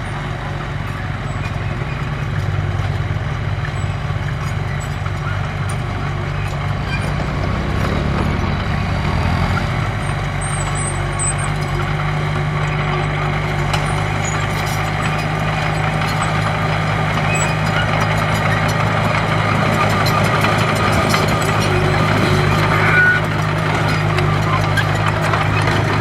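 Diesel engine of a heavy earthmoving machine running steadily under load, its pitch rising briefly and dropping again about a third of the way in, with light clanks and clicks over it.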